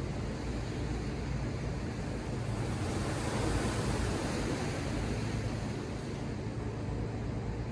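Ocean surf: a wave breaks and washes up the shore, swelling about three seconds in and fading a few seconds later, over a steady low rumble.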